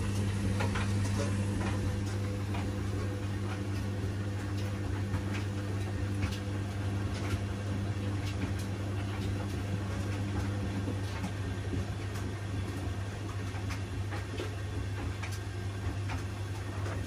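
Washing machine running, a steady motor hum with scattered light clicks and taps. A higher part of the hum drops out about eleven seconds in.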